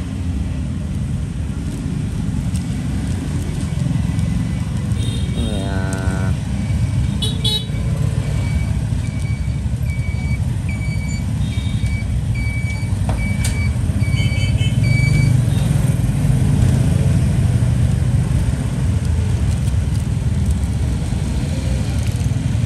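Steady street traffic noise. About six seconds in there is a brief rising tone, and from about 8 to 15 seconds a string of short, evenly spaced electronic beeps, about two a second.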